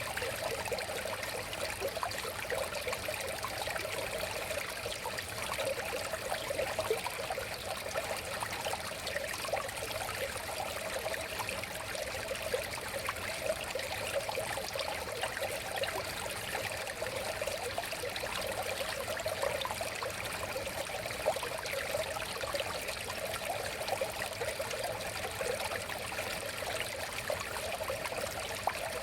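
River water flowing steadily: a continuous rush of running water, flecked with many small splashes and gurgles.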